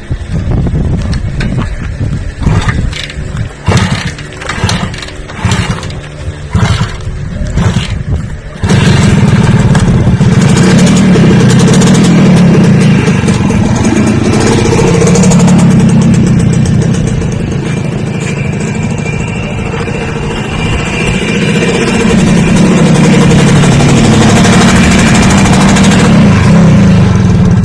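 An engine running in uneven, irregular bursts, then about a third of the way in suddenly coming up to a loud, steady run and being revved up and down several times.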